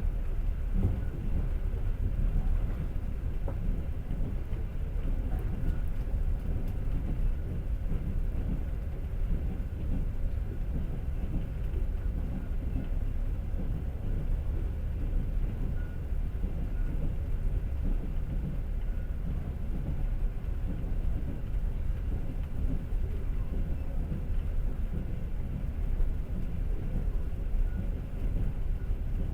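Passenger train running, heard from inside the carriage: a steady low rumble of wheels on the rails.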